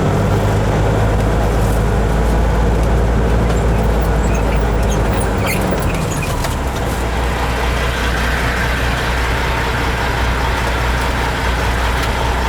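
Kenworth truck's diesel engine running steadily, heard from inside the cab; the engine note shifts about six seconds in, with a few faint clicks just before.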